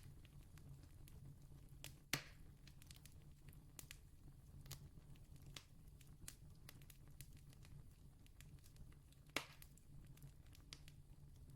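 Faint campfire crackling: scattered small clicks of burning wood, with two sharper pops, one about two seconds in and one near the end, over a steady low hum.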